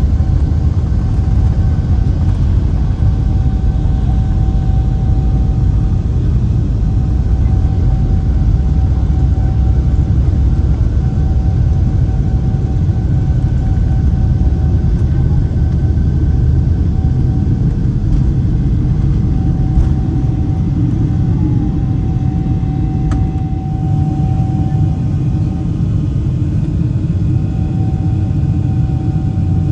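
Boeing 747-8's GEnx jet engines and airframe rumbling inside the cabin during takeoff: a loud, steady low rumble with a steady whine that fades in and out.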